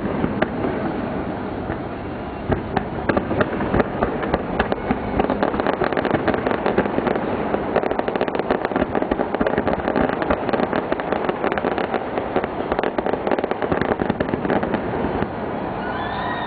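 Fireworks display bursting overhead: a dense, rapid run of cracks and bangs that thickens after a couple of seconds and eases near the end.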